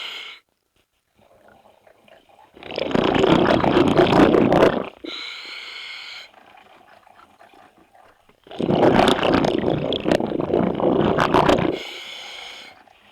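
Scuba diver breathing through a regulator underwater. There are two long, loud exhalations of bubbles a few seconds apart, each trailing off into a softer hiss.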